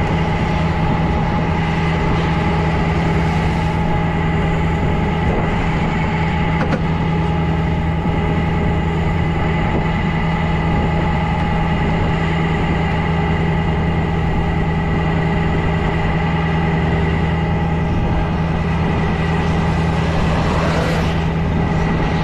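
Tow truck engine idling with a steady, unchanging low hum.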